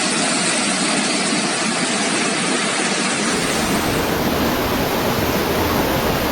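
Steady, loud rushing noise of storm water, heavy rain and flowing floodwater, turning fuller and deeper about three seconds in.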